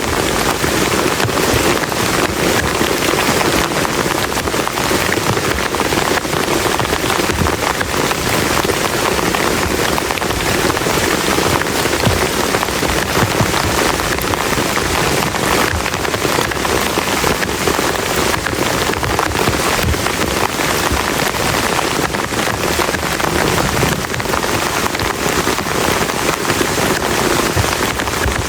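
Heavy rain falling steadily, a dense patter of individual drops striking a surface close to the microphone.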